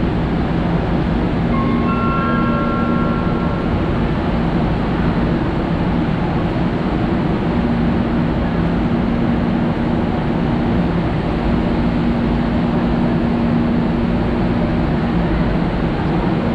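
Manila MRT Line 3 light-rail train running on the track, heard from inside the car: a steady rumble with a low hum, and a few brief high tones about two seconds in.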